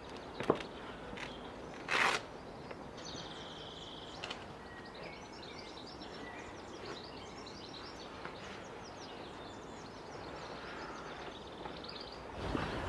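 Small birds chirping and singing, with a few sharp clicks and a short rustle about two seconds in. Near the end a low engine rumble comes in.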